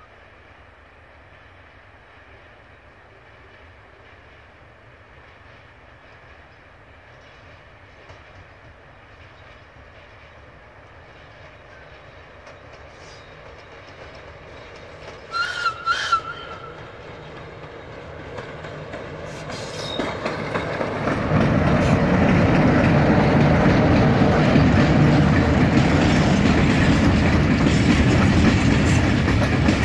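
Diesel-hauled freight train approaching: the locomotive's running grows from faint to loud, with short horn sounds about halfway through. About two-thirds of the way in the locomotive passes close and the loaded hopper wagons roll by, wheels clicking over the rail joints.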